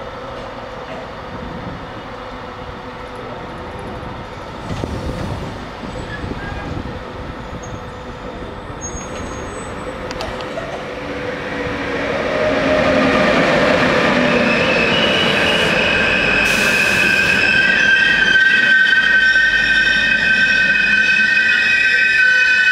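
ÖBB passenger train pulling into the station. About halfway through, its wheels and brakes set up a loud squeal of several steady high tones over the rolling rumble.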